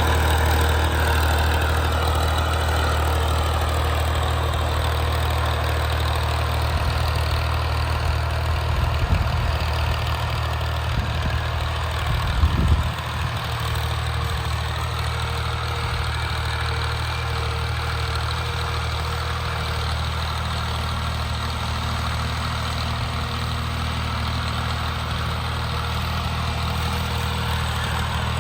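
Tractor's diesel engine running steadily, with a short cluster of knocks about twelve seconds in.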